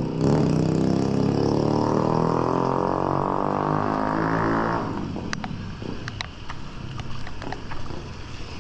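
A motor vehicle's engine accelerating close by, its pitch rising steadily for nearly five seconds before it cuts off and fades away.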